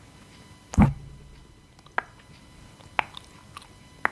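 Gum chewing with sharp mouth clicks about once a second, and one louder dull thump about a second in.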